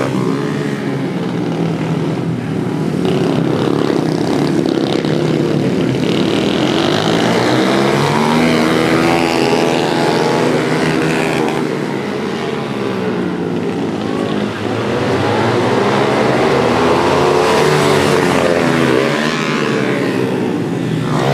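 Several pit bike engines revving hard, their pitch rising and falling repeatedly as the bikes accelerate, shift and race past.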